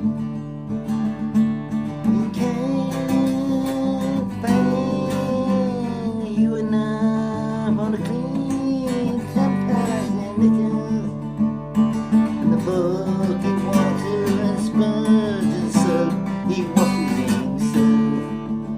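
Acoustic guitar strummed steadily, with a voice singing long, wavering notes over it in two phrases, breaking off for a moment about halfway through.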